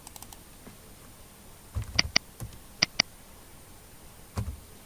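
Computer clicking: two quick pairs of sharp clicks about a second apart, like double-clicks, with a few soft thumps and faint ticks around them.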